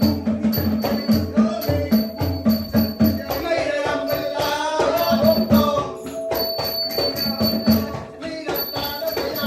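Nora ensemble music: pitched hand drums beating a quick, even rhythm, with small cymbals ringing sharply on the beat. A wavering melody line comes in over the percussion in the middle.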